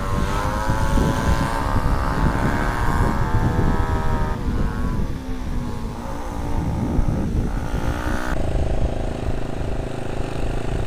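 Yamaha New Vixion Advance's 150 cc single-cylinder four-stroke engine running under way, its pitch rising and falling with the throttle and changing abruptly about eight seconds in, over a low rumble of wind and road noise on the helmet mic.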